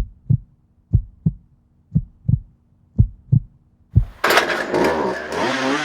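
Slow heartbeat, low paired thumps about once a second. About four seconds in, a loud chainsaw engine cuts in and runs.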